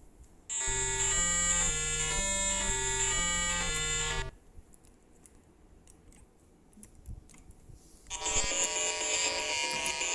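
A buzzy electronic tune of short stepped notes for a few seconds, then a pause with faint clicks, then a sustained buzzy electronic tone near the end.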